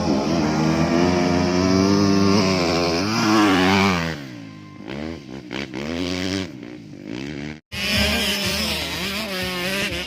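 Motocross dirt bike engine revving hard and climbing in pitch over the first few seconds, then falling off and rising again in repeated shorter revs as the rider works the throttle through the gears. The sound cuts out for an instant about three-quarters of the way through.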